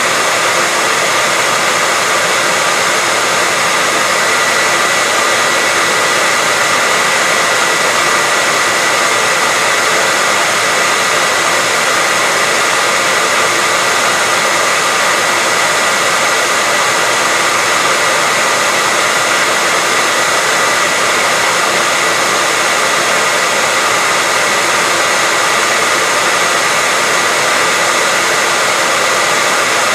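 Hair dryer running steadily: a constant rush of blown air with a steady high whine, played on as white noise.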